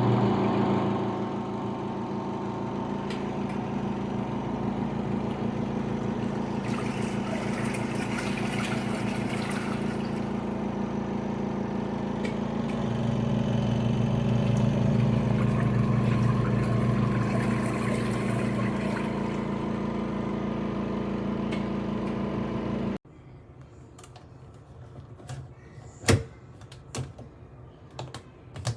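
A steady motor hum that stops abruptly about three quarters of the way through, followed by scattered sharp clicks and taps.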